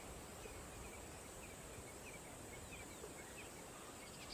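Quiet bush ambience: a low, steady background hiss, with a string of faint, short, high chirps from about a second and a half in.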